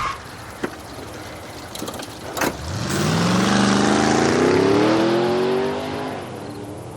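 A car engine accelerating, its pitch rising steadily for about three seconds before it fades away. A few sharp clicks come before it.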